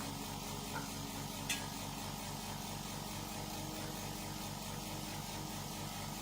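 A restored 700cc four-stroke tractor engine running steadily at idle, an even low chug of about six beats a second.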